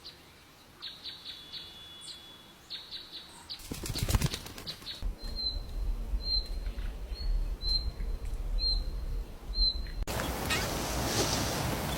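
Small birds chirping in short, high calls, with a brief burst of wing flapping or rustling about four seconds in. One bird then repeats a single chirp about once a second, and a louder, noisier stretch with more chirps begins near the end.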